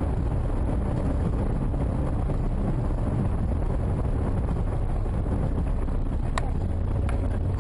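Steady low rumble of a moving car's road and wind noise, as picked up by a dashcam, with a few sharp clicks near the end.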